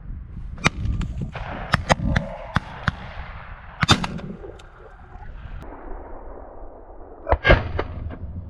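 Shotgun shots at circling doves: a string of sharp reports, the loudest about four seconds in and two in quick succession near the end.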